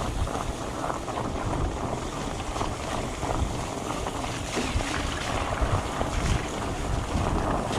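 Wind buffeting the microphone over the steady rumble of fat-bike tyres rolling over a rough dirt trail, with small uneven bumps.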